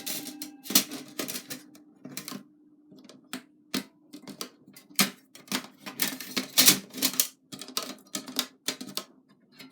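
Metal fire-pit parts, including a wire grill net, being handled and set down: irregular clicks, taps and light clanks of metal on metal, several a second at times, over a faint steady hum.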